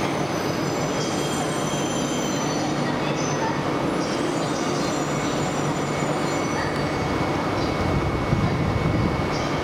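E1 series Max double-deck Shinkansen train moving slowly alongside the platform over a steady rumble. There are high squealing tones from its wheels and brakes in the first few seconds, then a steady high whine.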